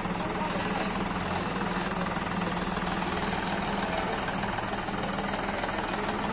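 Diesel engine running at a steady idle.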